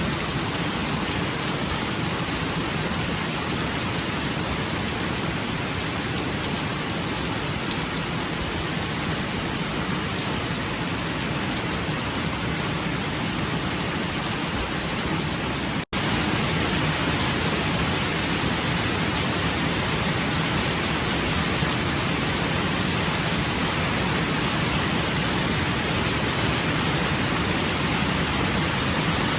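Steady rain falling, an even hiss of many drops. Just past halfway it cuts out for an instant and comes back a little louder.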